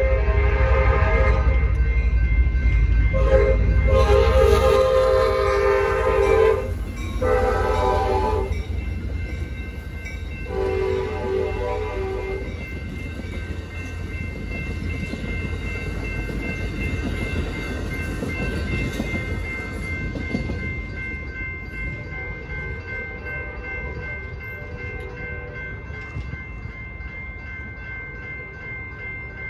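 Amtrak San Joaquins passenger train's horn sounding the grade-crossing signal: the end of one long blast, then a long, a short and a final long blast, the last ending about 12 seconds in. Meanwhile the train passes, its heavy rumble giving way after about 5 seconds to wheels clattering over the rails, which fades toward the end. A crossing bell rings steadily underneath.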